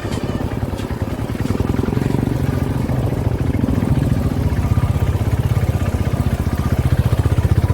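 Single-cylinder motorcycle running through a modified exhaust, an even, rapid thumping beat that grows gradually louder.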